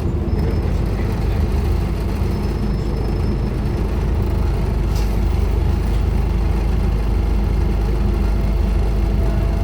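Scania N230UD Omnicity double-deck bus's diesel engine running steadily, a low hum with no clear rise or fall in pitch.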